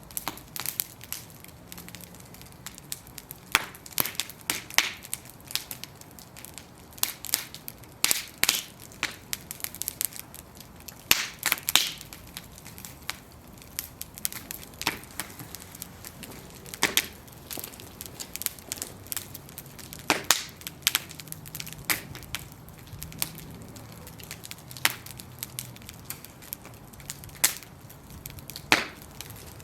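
Bonfire of burning wooden planks crackling, with sharp, irregular pops and snaps over a low hiss of flame.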